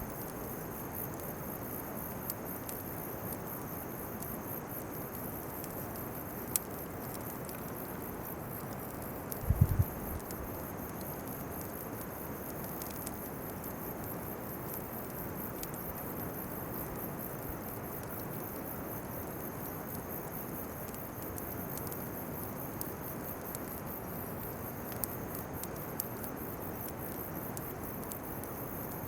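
Insects chirping steadily in a rapid, high-pitched pulse over a steady background hiss. A single sharp click comes about six seconds in, and a brief low bump about ten seconds in.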